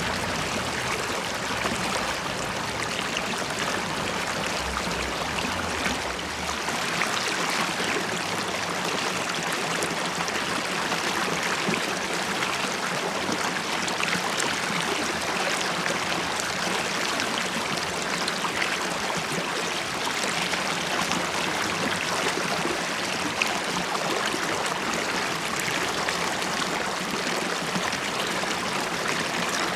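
River water flowing and bubbling steadily, a continuous rushing with small splashes and gurgles.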